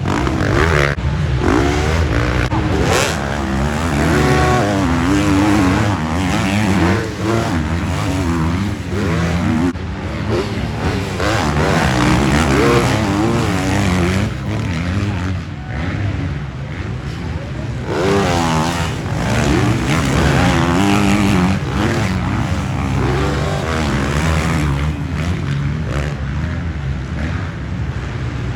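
Several motocross dirt bikes racing around the track, their engines revving up and down over and over as they go.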